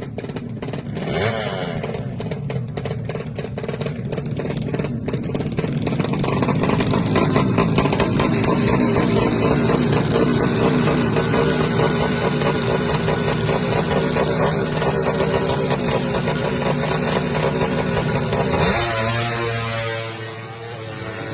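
130cc underbone drag-racing motorcycle engine revving: uneven blips at first, then held at high revs for a long stretch before dropping back to a lower idle near the end.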